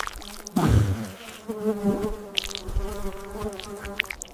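Cartoon sound effect of a buzzing insect, a steady droning buzz, after a low thump about half a second in.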